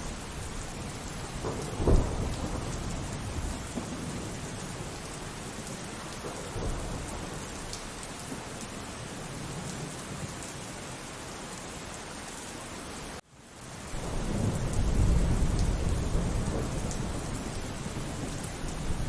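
Steady rain with thunder: a sharp thunderclap about two seconds in, then a long low rumble of thunder after the sound cuts out abruptly for a moment about two-thirds of the way through.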